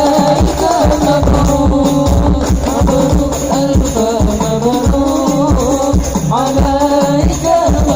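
Habsyi (hadrah) ensemble playing sholawat: frame drums and jingles beat a fast, steady rhythm under a wavering melodic line.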